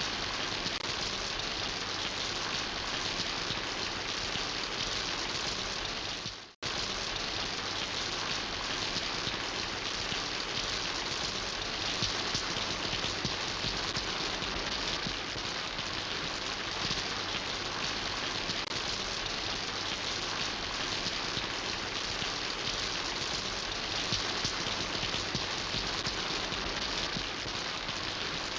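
Steady rain falling, a dense, even patter of drops. The sound cuts out completely for a split second about six and a half seconds in, then resumes unchanged.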